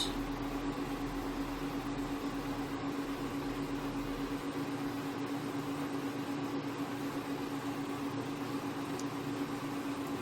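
Steady background hum with an even hiss: one constant tone over a low drone that fades out about halfway through.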